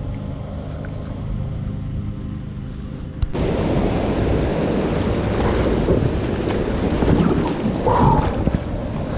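Wind buffeting the microphone over moving water, a steady low rumble that turns suddenly louder and fuller about three seconds in.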